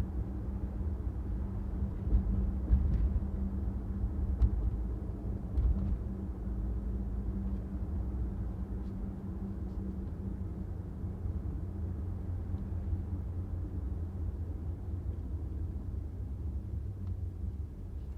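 A car driving on a city street: a steady low rumble of engine and tyres on the road, with a few brief thumps in the first six seconds.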